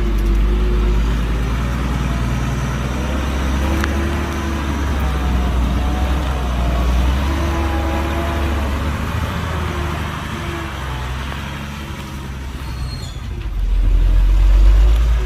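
Heavy diesel engine of earthmoving equipment running under changing load, its pitch rising and falling over a deep rumble. It eases off about twelve seconds in, then swells louder near the end.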